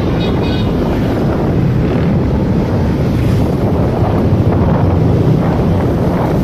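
Wind buffeting the microphone of a moving motorcycle, a steady loud rush over the engine and road noise.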